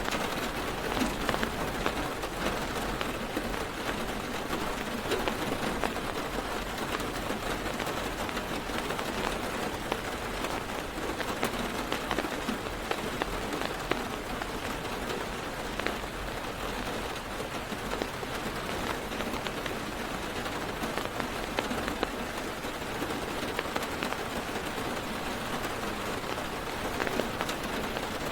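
Heavy rain falling on a car's roof and windows, heard from inside the car: a steady hiss dotted with many sharp ticks of single drops.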